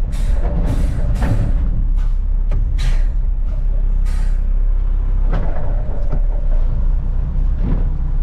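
Front-load garbage truck's diesel engine running under a heavy low rumble as the truck manoeuvres, with several short, sharp hisses scattered through.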